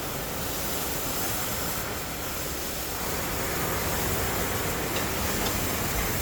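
Steady rushing, rumbling noise from a trailer dumper tipping a semi-trailer of wood chips, the load pouring out of the raised trailer. It swells a little about halfway through.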